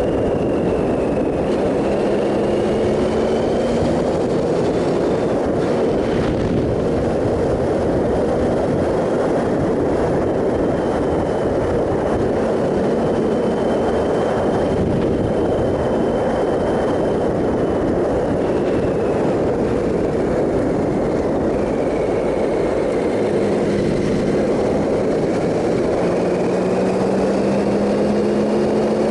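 Triumph Sprint ST 1050's three-cylinder engine running at road speed under a steady rush of wind noise, its pitch drifting slowly up and down.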